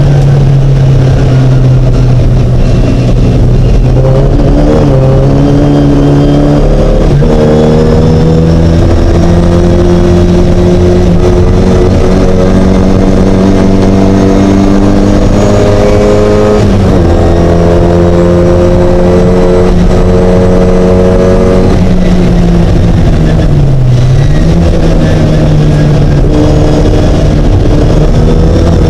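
Mini race car engine running hard and loud, its pitch holding steady and then shifting several times as the driver works through the gears and lifts, with one quick dip and recovery near the end.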